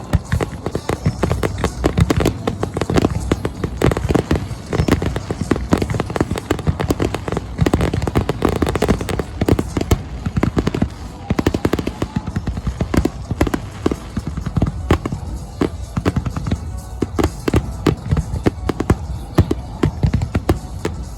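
Fireworks display: many shells bursting in quick succession, a dense, unbroken run of bangs and crackles.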